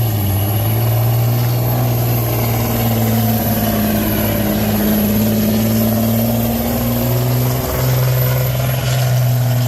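Heavy pulling truck's engine held at high, steady revs under load as it pulls the sled, with a thin high whistle over it; the note dips briefly about eight seconds in and then comes back up.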